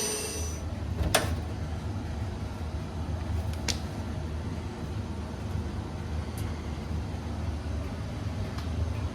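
A vacuum cleaner's whine cuts off just after the start, leaving a steady low hum. Over the hum come four short, sharp clicks, the first the loudest, as of tools or metal parts being handled.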